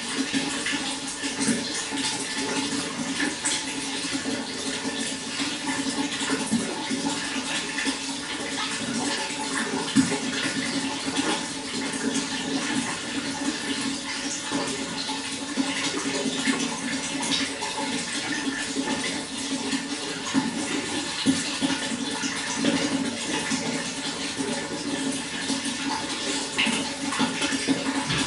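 Water running steadily, a continuous rush with many small splashes and gurgles.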